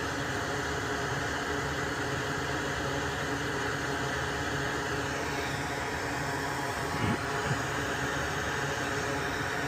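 Steady whirring hum of a small fan or blower running at the workbench, with two brief soft knocks about seven seconds in.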